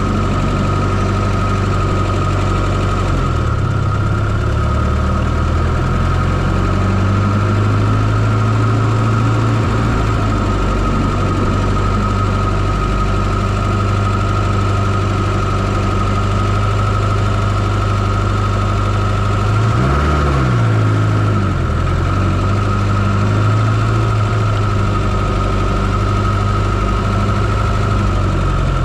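Fiat Coupé 2.0 16V turbo four-cylinder engine idling steadily, heard from inside the engine bay, with a constant high whine over the engine note. About two-thirds of the way in the engine note wavers briefly.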